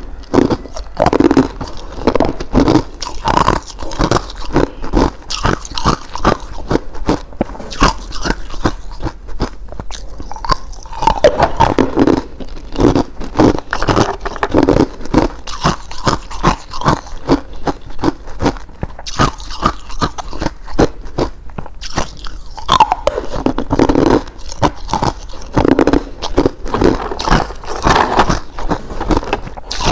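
Ice being bitten and chewed close to the microphone: loud, irregular crunching in bursts of rapid bites, with short pauses between mouthfuls.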